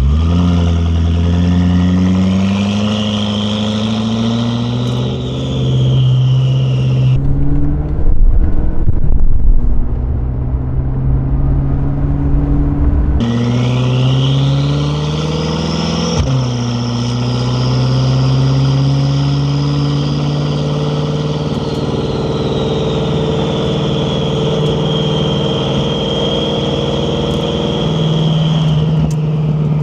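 BMW F10 M5 Competition's twin-turbo V8 with an Akrapovic exhaust, pulling hard with a high turbo whistle rising alongside the engine note. About seven seconds in, the whistle cuts off and a loud low rumble takes over for several seconds, the loudest part. Then a second pull builds, its whistle climbing high and slowly easing off while the engine runs on steadily.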